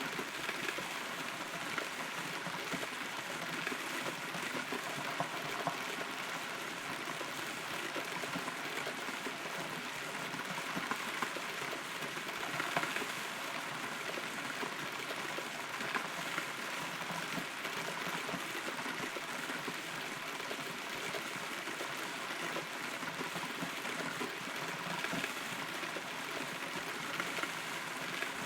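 Steady rain falling on a hollow, rotten tree, heard from inside the trunk: an even hiss of rain with many small drop ticks and a few louder ones.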